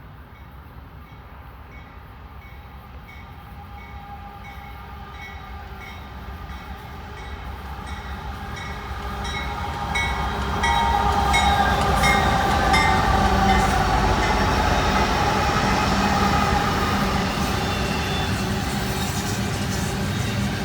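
Diesel locomotives leading an intermodal freight train, approaching and passing: the rumble and wheel clicks grow steadily louder, reach full loudness about halfway, and stay loud as the train goes by, the engine tones dropping in pitch as the locomotives pass.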